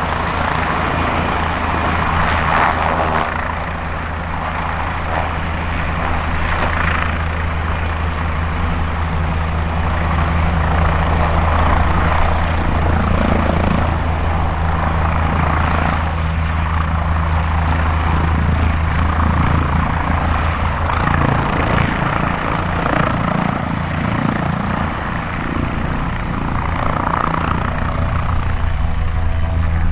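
Helicopter hovering overhead: a steady, unbroken low rotor drone over a haze of city traffic.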